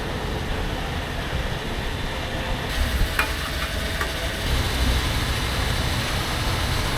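Steady wind and road noise with a low rumble during a motorcycle ride, with a few short clicks about three seconds in.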